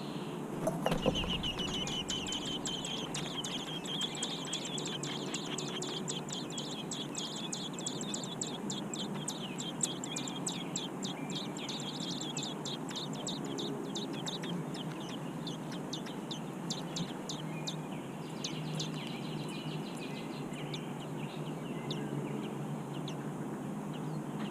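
American robin nestlings begging: a dense chorus of rapid, high, short chirps that starts right after a brief thump about a second in and thins out after about halfway.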